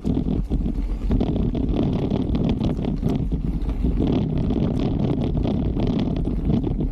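Wind buffeting the microphone of a camera on a moving mountain bike, a steady low rumble, with scattered clicks and rattles from the bike and tyres on the trail.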